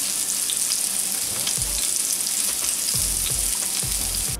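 Two tuna steaks sizzling steadily in a ridged cast-iron grill pan, a dense crackling hiss. A few soft low bumps come through during the second half.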